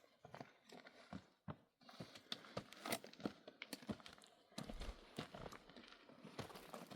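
Irregular, faint footfalls on stony ground, from people or pack animals walking. A low rumble joins them about two-thirds of the way through.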